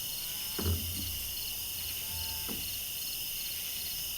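Crickets chirping steadily in repeated pulsed trills, with a short soft thump about a second in.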